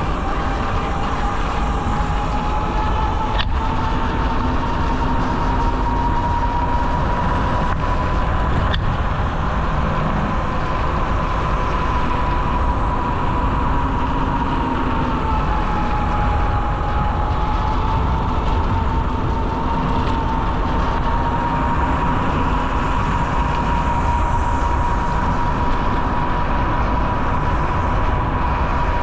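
Wind rushing over the microphone of a moving bike, a steady low rumble, with a single steady whine that drifts slightly up and down in pitch.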